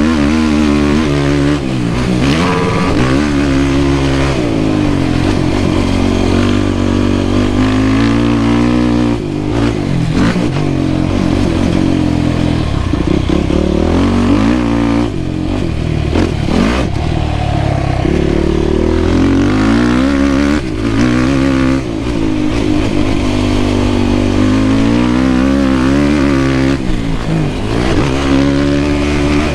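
Yamaha YFZ450R quad's single-cylinder four-stroke engine ridden hard, revving up and falling back over and over as the throttle is opened and chopped, with a few short drops in engine sound along the way.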